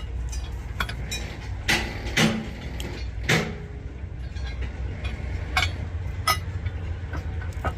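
Irregular sharp metal clanks and knocks from steel track chain parts being worked on, the loudest about three seconds in, over a steady low machine hum.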